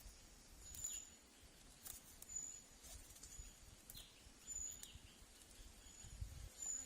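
Faint outdoor ambience with a small bird giving short, high chirps about once a second, over scattered soft clicks and rustles.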